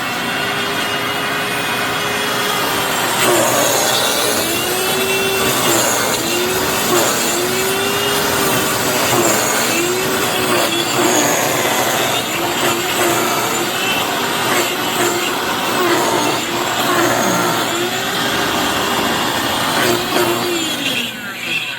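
Hoover FloorMate wet floor cleaner's motor running with a loud grinding noise and a whine whose pitch keeps wavering up and down, sounding like it's eating itself: the motor's bearings have died.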